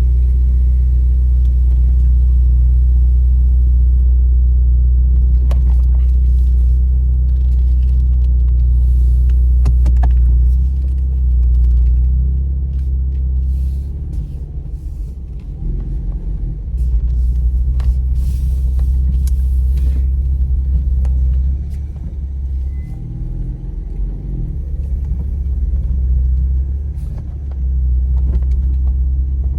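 Car on the move: a steady low rumble of engine and road noise that eases off and swells again a few times, with a few light clicks over it.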